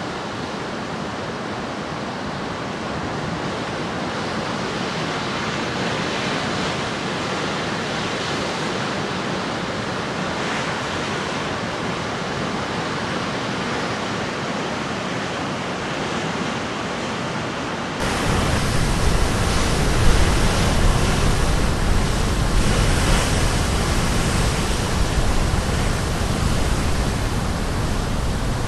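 Caribbean Sea surf breaking on a rocky shore, a steady wash of noise with faint swells. About two-thirds of the way in it turns abruptly louder and a deep rumble joins it.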